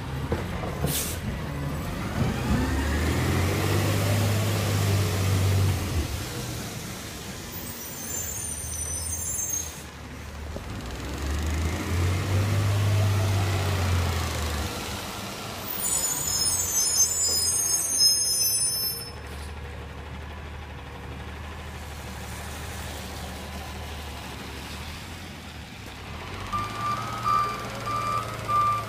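Recycling garbage truck's diesel engine revving up twice, with two spells of sharp air hissing from its brakes, then the reversing beeper starting to beep steadily near the end.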